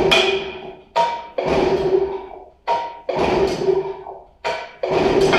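Johnson 25 hp two-cylinder outboard being cranked over in four bursts, each about a second long and about one every second and a half, each starting with a short sharp sound; it does not catch. The throttle is held wide open to clear excess fuel from an engine flooded by over-priming.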